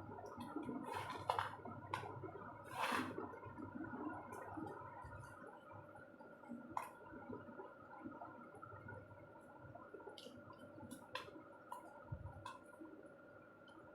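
Pressed white salt being crushed: faint crackling and crumbling, with a few sharper crunches about one, three, seven and eleven seconds in, over a faint steady hum.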